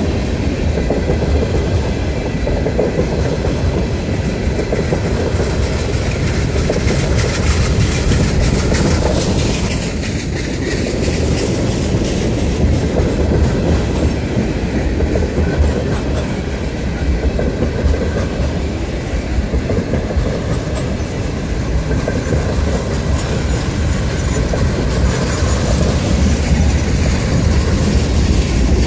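Freight train of tank cars rolling past at close range: a steady, loud rumble of steel wheels on the rails with a constant fine clatter.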